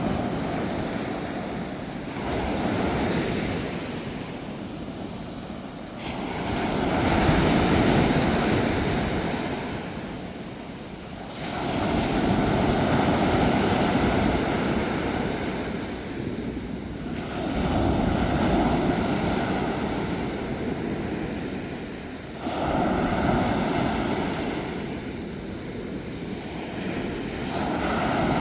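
Ocean waves breaking and washing ashore, one surge about every four to five seconds, each swelling and then ebbing.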